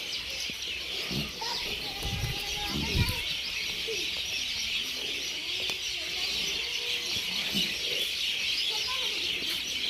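Scattered short clucking calls of farmyard fowl over a steady high-pitched hiss, with a few dull low thumps in the first few seconds.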